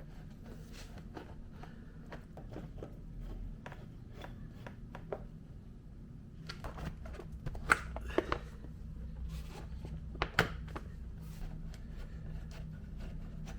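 Scattered light clicks and taps of plastic motorcycle fairing panels and their fasteners being handled and fitted, a few sharper knocks in the middle, over a low steady hum.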